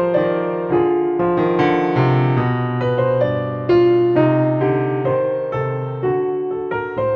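Slow, gentle solo piano music: soft chords and a simple melody, each note struck and left to ring.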